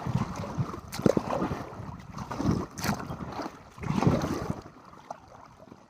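Kayak paddle strokes splashing in the lake water, three swells of sound about a second and a half apart, with wind on the microphone; the sound dies away near the end.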